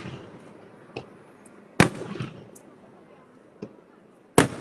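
Aerial firework shells bursting: two loud bangs, about two seconds in and near the end, with fainter pops between, each loud bang trailing off in a rolling echo.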